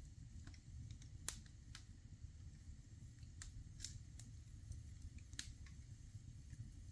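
Wood fire crackling in a fireplace: scattered sharp pops, about five clear ones at uneven intervals, over a faint low rumble.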